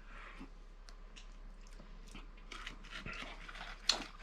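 Spoon mixing snow cream in a bowl: faint, irregular crunching and scraping of the wet snow, getting busier toward the end, with one sharper click near the end.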